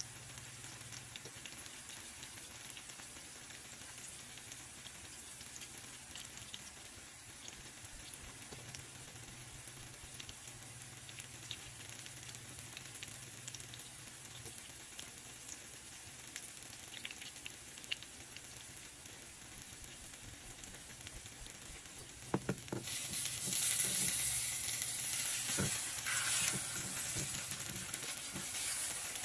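Egg and eggplant omelette frying in oil in a nonstick pan, a steady soft sizzle and crackle. About 22 seconds in, a spatula knocks against the pan as it goes under the omelette, and the sizzle grows clearly louder.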